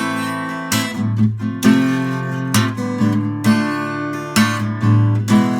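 Acoustic guitar strumming chords in a steady rhythm over a bass line: an instrumental break in a pop song.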